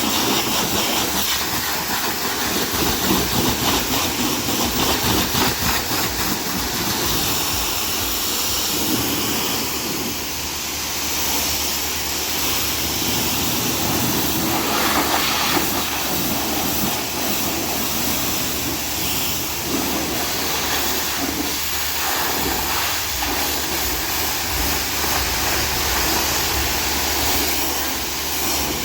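Pressure washer spraying water onto a car, a steady loud hiss with small changes in level as the jet moves.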